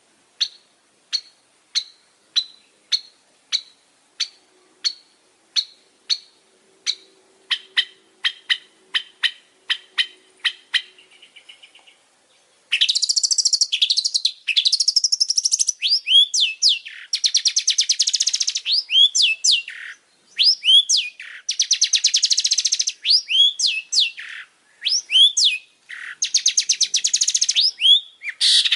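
Long-tailed shrike (pentet) singing. It begins with a run of short, sharp single notes, about two a second and getting faster. About halfway through it breaks into a loud, harsh, scratchy chatter broken by hooked, upward-swooping notes.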